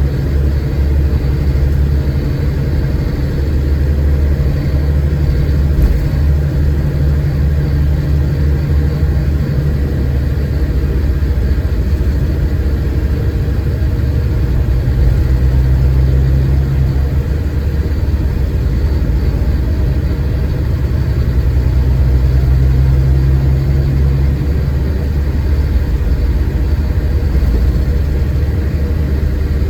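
Scania K410IB coach's six-cylinder diesel running under way, a steady low rumble whose note shifts a few times as engine load changes.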